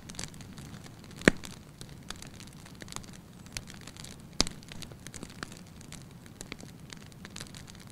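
Wood fire burning in a fireplace: a steady low hiss with irregular crackles and pops, two sharp loud snaps about a second in and again past four seconds.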